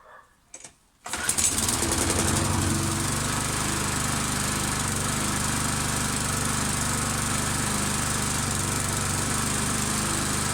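Petrol lawn mower engine catching about a second in after being primed with a few pumps of petrol, then running steadily at a constant speed.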